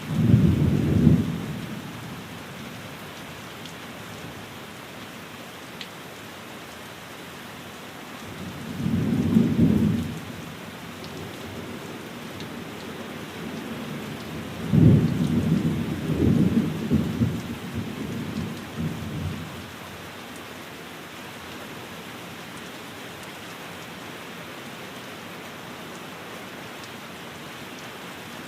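Steady rain falling on a window, with three low rumbles of thunder: one right at the start, a shorter one about nine seconds in, and a longer, uneven rolling one from about fifteen to nineteen seconds.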